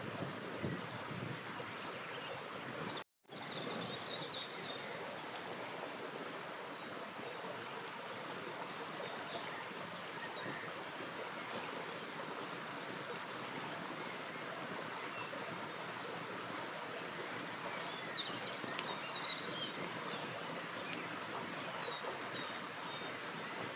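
Steady rushing of a river flowing over its bed, with faint bird chirps now and then. The sound cuts out completely for a split second about three seconds in.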